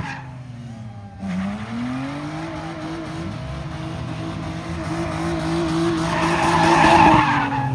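Car engine held at high revs with its tyres squealing as the car spins in a pit. The engine sags briefly at the start, then climbs and holds, and the squeal is loudest near the end.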